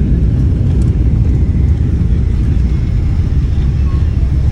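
Steady low rumble of a Boeing 777-300 airliner heard from inside the passenger cabin.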